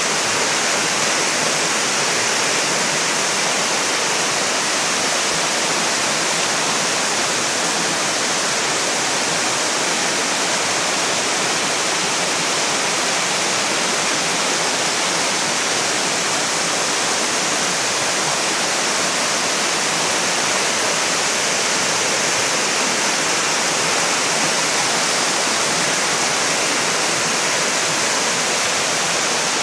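Mountain valley stream rushing, a steady, unbroken sound of flowing water.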